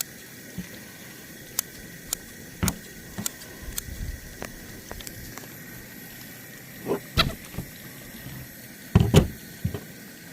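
Sharp, irregular clicks of poultry shears snipping while a chicken carcass is cut up, with a few louder thumps later on as the bird is handled on the table.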